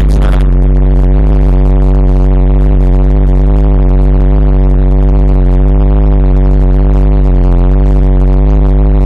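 Small-block Chevrolet V8 with a big-lift cam idling steadily: a loud, deep, even drone.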